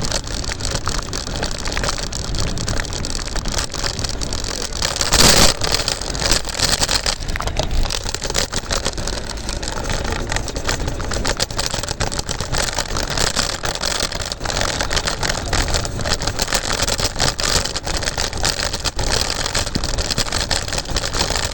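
Scooter rolling along at speed: wind buffeting the microphone with the rumble and rattle of the wheels and frame, and one louder jolt about five seconds in.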